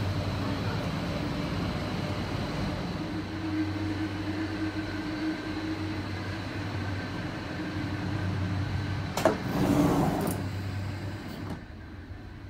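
Steady low hum of a standing SBB InterRegio train's onboard equipment. About nine seconds in there is a sharp click and a brief hiss from the carriage's automatic sliding door, and the sound then falls to a quieter level.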